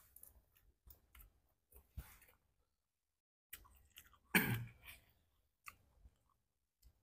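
Close-miked chewing and mouth sounds of people eating boiled shrimp, with scattered small clicks and one louder breathy mouth sound a little past the middle.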